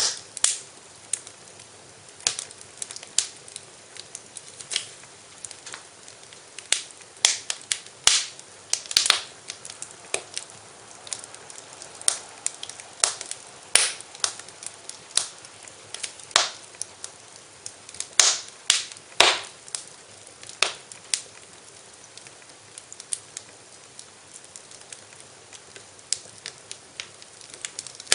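Fireplace fire crackling, with irregular sharp pops coming several times a second over a faint steady hiss.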